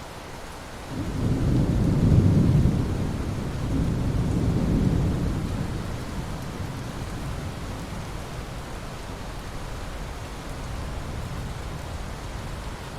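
Thunder rolling over steady rain: a deep rumble swells about a second in, peaks, swells again, then slowly fades back under the hiss of the rain.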